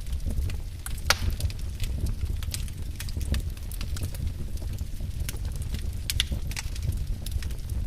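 Wood fire burning in a fireplace: a steady low rumble of flames with frequent irregular sharp crackles and pops, one louder pop about a second in.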